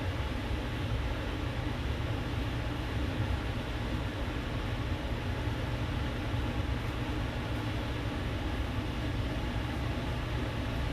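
Steady low hum with an even hiss, unchanging throughout: background room noise such as an air conditioner running.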